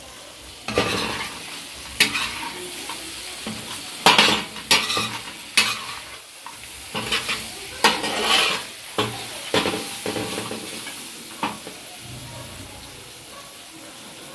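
Mutton chops frying in oil and masala on a large flat tawa, sizzling steadily, while a metal spatula scrapes and stirs them against the griddle in a run of scrapes and clanks. The scraping stops a few seconds before the end, leaving just the sizzle.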